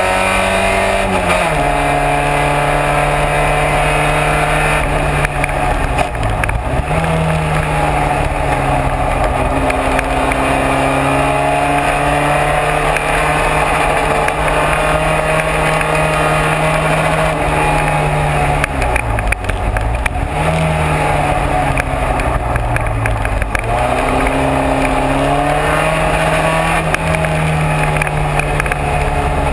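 Racing car engine running hard at sustained high revs, its pitch dropping sharply about a second and a half in and dipping then climbing back several more times as the car lifts and brakes for corners and accelerates out.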